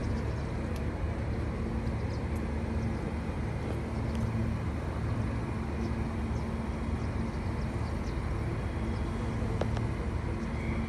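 Steady low hum of a Queensland Rail electric suburban train at a station platform, with a few faint clicks.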